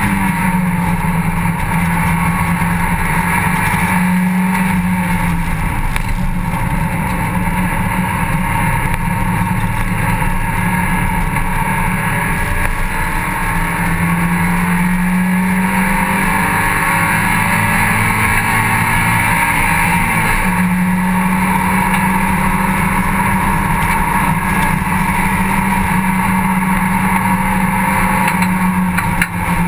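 Mazda MX-5 cup race car's four-cylinder engine running hard on track, heard from inside the open cockpit along with wind and road noise. The engine note is loud and steady, its pitch stepping up and down several times as the car works through the gears.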